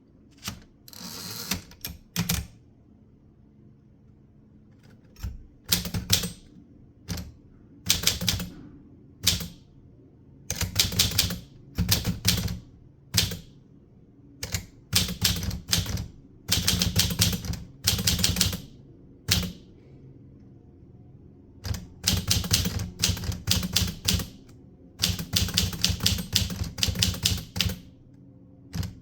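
Typewriter being typed on in bursts of rapid key strikes, each run of clacking lasting a second or two, broken by short pauses and one longer pause a little past the middle.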